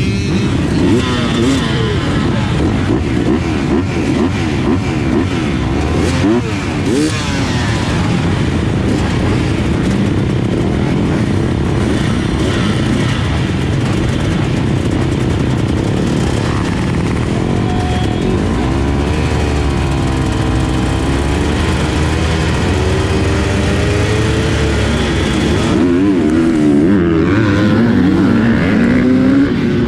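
Dirt bike engines revving. In the first several seconds many bikes are heard at once, their pitches overlapping as they rise and fall. Later one bike's engine stands out, its pitch climbing and dropping repeatedly with the throttle.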